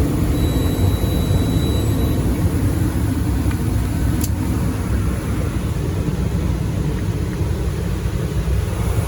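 Gas furnace running steadily, its burners firing and blower moving air in a low, even rumble, with a single sharp click about four seconds in.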